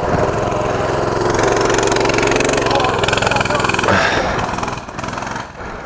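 A mini bike's small single-cylinder engine running loud under throttle, then falling away over the last second or two.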